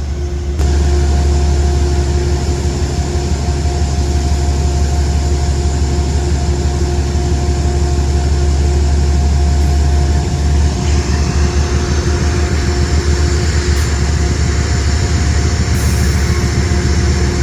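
Diesel locomotive running close by: a loud, steady deep drone with a constant whine over it. About ten seconds in, the sound turns rougher and brighter as the locomotive works harder.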